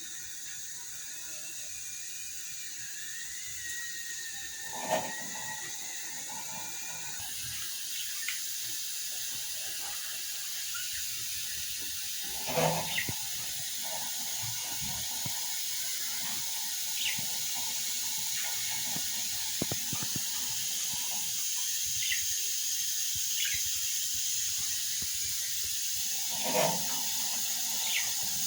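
Budgerigars giving scattered short chirps over a steady hiss that slowly grows louder, with three brief knocks.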